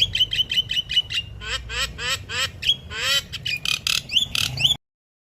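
Starling (burung jalak) calling: a rapid run of squawks and chirps, some held briefly and many sliding in pitch, cutting off suddenly near the end.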